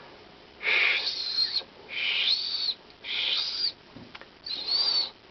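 A person whistling a bird-call imitation four times: each is a breathy hiss with a high whistled note in it that rises and then falls. This is the breathy practice sound beginning to turn into a whistle.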